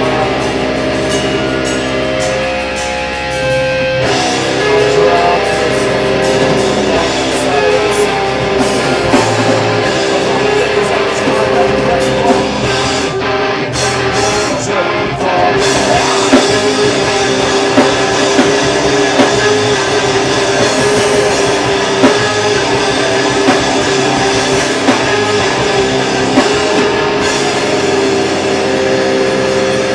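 Live metalcore band playing: electric guitars holding long chords over drum hits.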